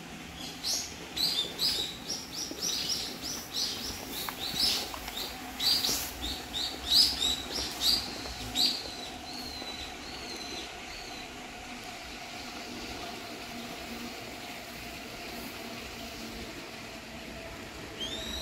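A bird chirping repeatedly, about two short high chirps a second and uneven in loudness, trailing off about ten seconds in, with a single chirp again near the end, over a steady low hum.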